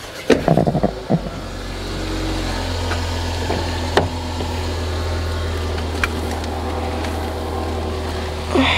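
Car engine idling steadily, heard from inside the cabin, its hum coming up over the first two seconds. A few knocks early on, then single sharp clicks from the door and cabin fittings.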